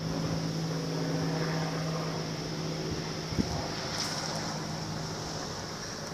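Helicopter flying overhead: a steady drone of engine and rotors heard from the ground. A single short click about three and a half seconds in.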